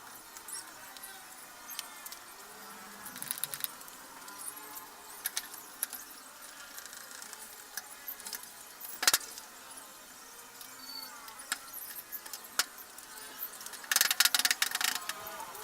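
Small metal parts and hand tools clinking and clicking during hands-on washing machine repair, with a louder knock about nine seconds in and a rapid run of clicks near the end.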